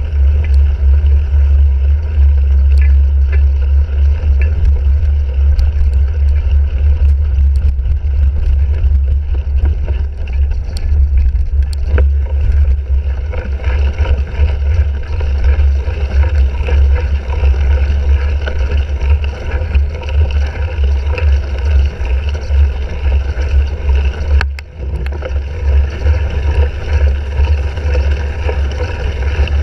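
Heavy wind rumble on a handlebar-mounted GoPro's microphone as a cyclocross bike is ridden at race pace, with scattered sharp clicks and rattles from the bike over rough ground. The rumble eases briefly near the end.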